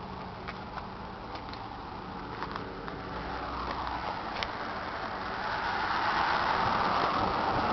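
A vehicle's running sound: a steady low hum with a rushing noise that grows louder over the second half, a few light clicks in the first half.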